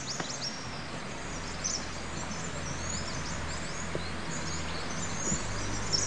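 Forest birds chirping and calling in many short, quick, high notes over a steady low hum.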